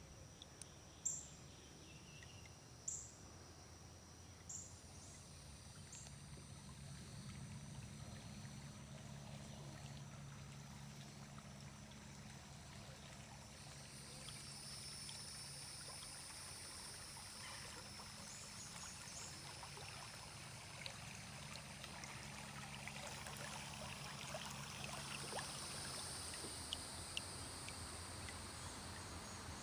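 Kayak paddle dipping and water trickling off the blade, with a few light knocks early on and insects buzzing faintly in the background.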